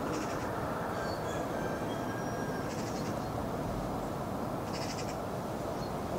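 A bird giving three short, high, buzzy calls about two seconds apart, with a few thin whistled notes about a second in, over a steady rush of wind and water.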